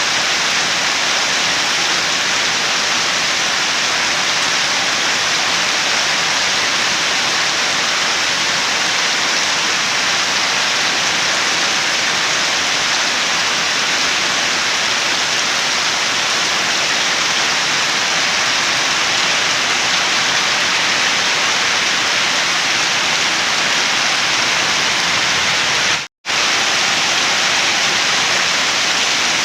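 Steady heavy rain, a dense even hiss with no distinct drops standing out, cut by a split second of silence near the end.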